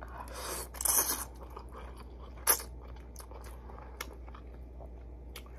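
A person eating ramen noodles close to the microphone: a bite and chewing in the first second or so, a single sharp click about two and a half seconds in, then only faint small mouth clicks.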